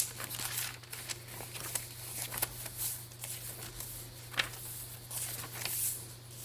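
Paper pages of a thick handmade junk journal being turned and handled: light rustling with a few soft ticks, a sharper one about four and a half seconds in, over a faint steady low hum.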